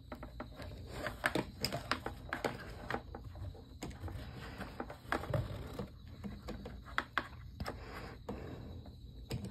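Irregular clicks, taps and small knocks of hands handling the fan's power cord and plug while plugging it in, several to the second at times, with no fan running yet.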